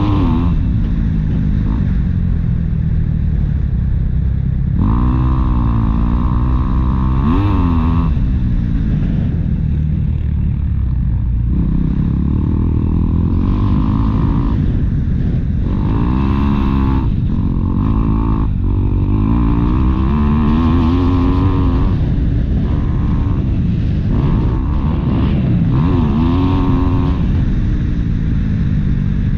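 Motocross motorcycle engine being ridden, its pitch rising and falling again and again as the rider works the throttle.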